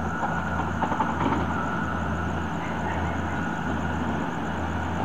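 Steady low rumble and hum of a train on the line.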